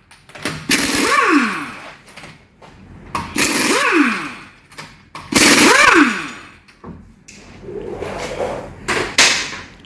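Impact wrench run in about four short bursts, each winding down with a falling whine as the tool spins down, typical of undoing a car's wheel nuts.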